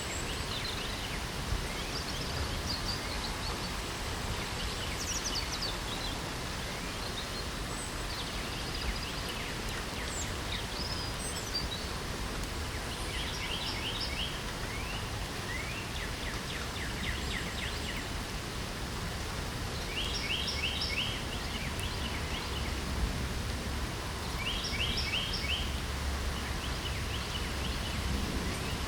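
Steady rain hiss with songbirds singing short, rapid trilled phrases that recur every few seconds over it.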